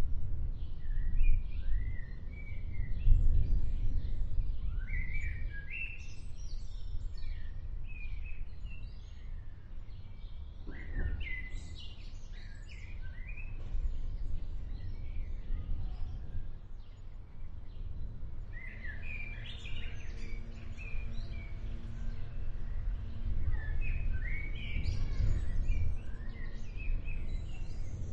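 Songbirds chirping and calling over the continuous low rumble of an approaching thunderstorm; the rumble swells about three seconds in.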